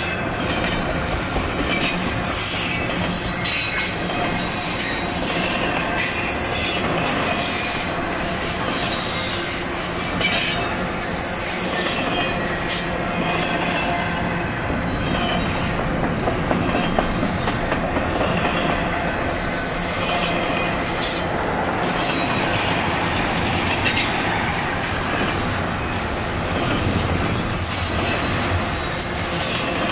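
Steel wheels of double-stack container well cars rolling past at close range: a steady rolling din of wheels on rail, with irregular clicks and clanks as the cars pass.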